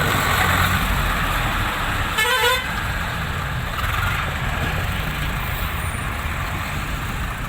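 A heavy vehicle's engine running steadily, with one short, wavering horn blast about two seconds in.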